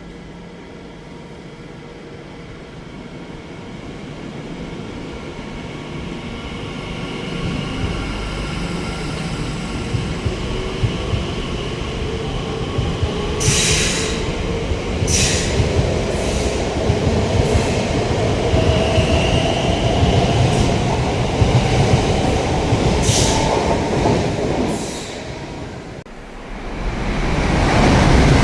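An electric train running through the station: its rumble builds over several seconds, with whining tones from its motors and a few short, sharp high-pitched bursts of wheel squeal. Near the end the sound drops briefly, then a loud rush of noise rises sharply.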